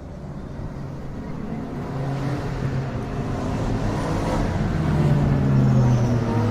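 GT3 race cars at speed on a road course, their engines growing steadily louder as the cars approach, with several engine notes overlapping.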